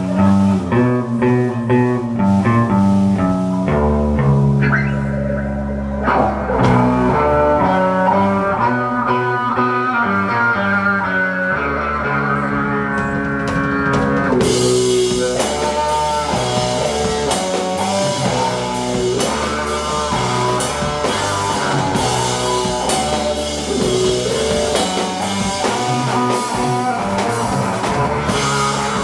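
Live rock band playing an instrumental passage on guitars, bass and drums, with no singing. About halfway through the sound gets much fuller and brighter as the band kicks in harder.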